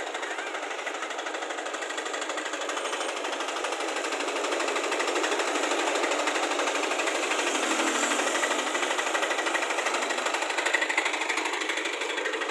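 Diesel power weeder's single-cylinder engine running steadily with a fast knocking beat, growing a little louder in the middle.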